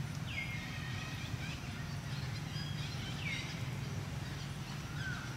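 Outdoor ambience with a steady low hum, and a bird giving a short falling whistle twice, about three seconds apart.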